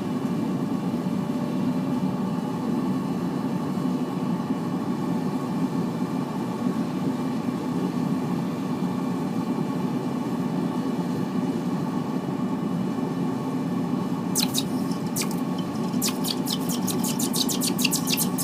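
Forced-air propane burner running steadily in the melting furnace. From about fourteen seconds in come sharp crackling pops, a few at first and then a quick run of them, as molten aluminum drips into water.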